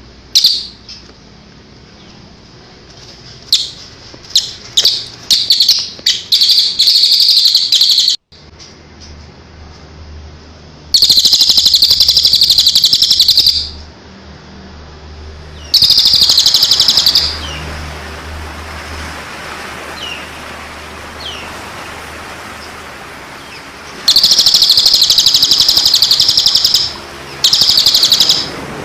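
Songbird song: a few short chips that build into loud, harsh buzzing trills, each lasting one to three seconds and repeated several times, with faint small chirps in the gaps.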